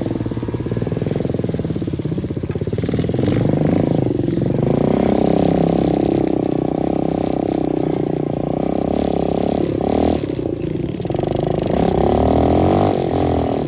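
125cc dirt bike engine running while being ridden. It revs up about four seconds in and holds high, eases off briefly around ten seconds, picks up again, and drops back near the end.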